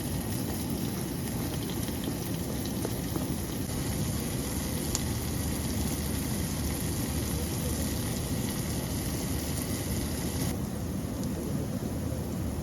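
Steady rushing of a small waterfall, heaviest in the low range, with a higher hiss over it that drops away about ten seconds in.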